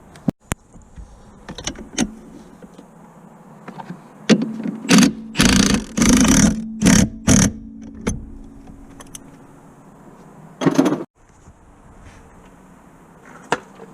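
A cordless power tool running in several short bursts with a motor whine, amid clicks and clatter of tools on metal while a car's clutch is being worked on.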